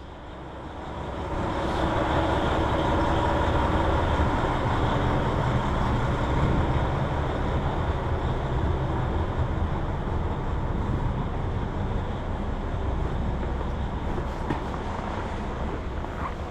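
A train running at the station, growing louder over the first two seconds, then a steady low rumble that eases off slightly near the end.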